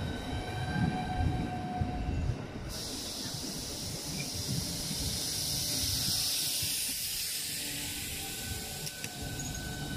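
Southeastern Class 395 Javelin electric multiple unit running past along the platform: low wheel rumble with a few steady whining tones, then from about three seconds in a loud, steady hiss takes over and slowly fades.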